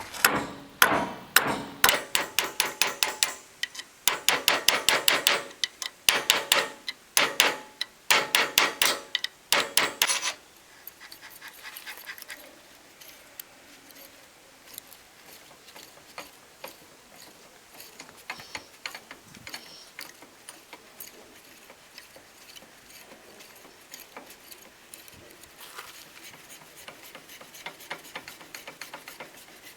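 A hammer striking metal in several rapid bursts of blows for about the first ten seconds, each blow ringing. Then come lighter, scattered clinks and rattles of metal parts being handled.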